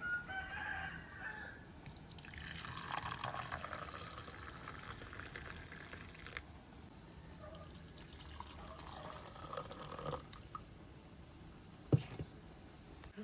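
Rooster crowing, faint, a few times: a call right at the start, a longer one a couple of seconds in, and weaker calls later.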